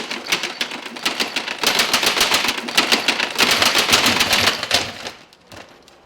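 Rapid, irregular clacking: many sharp clicks and knocks close together, building to a loud clatter and dying away about five seconds in.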